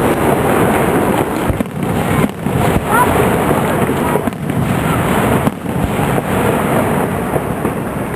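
Aerial fireworks going off in a dense, continuous barrage: overlapping booms and crackle with several sharper bangs standing out.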